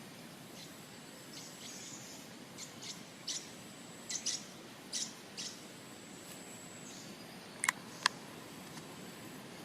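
Small birds chirping: a scatter of short, high chirps through the middle, then two sharp clicks close together near the end, over a faint steady high-pitched tone and background hiss.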